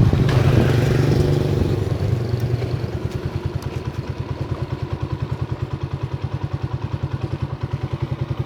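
Motorcycle's small single-cylinder engine, louder for the first couple of seconds, then settling to an idle with an even throb of about nine beats a second.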